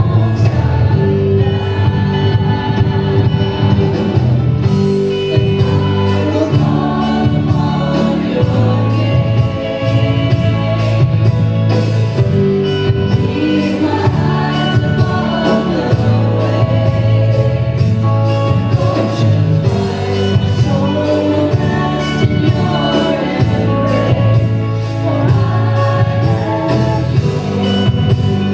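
A live worship band accompanying singers in a gospel-style hymn, with sustained chords under the voices. A steady drum beat comes in about four seconds in.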